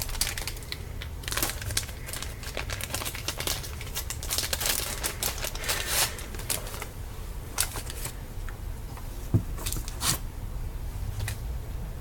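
Plastic wrapping crinkling and crackling as it is handled, with many irregular sharp clicks and taps.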